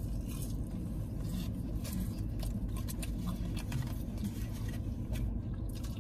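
Mouth-closed chewing of a chili dog, with small wet clicks and smacks scattered through it, over a steady low hum.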